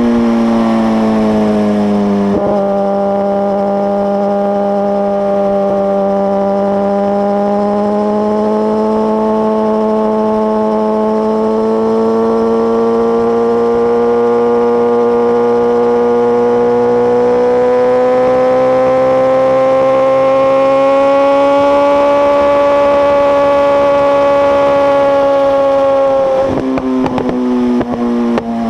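Suzuki GSX-R1000 inline-four through a Two Brothers exhaust, held at high, steady revs with the pitch slowly climbing. About 26 seconds in the revs drop and the exhaust gives a few sharp pops.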